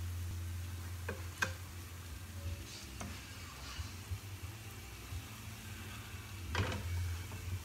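Tuna fritters sizzling in shallow oil in a frying pan, with a few sharp clicks and scrapes of a spoon against the pan as they are turned and lifted out. A steady low hum runs underneath.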